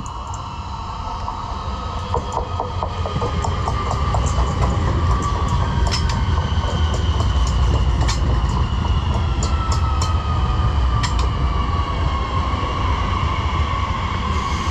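Electric multiple-unit passenger train running in alongside the platform. A heavy rumble grows louder over the first few seconds, with wheels clicking over rail joints. A high whine slides slowly lower in pitch in the last few seconds.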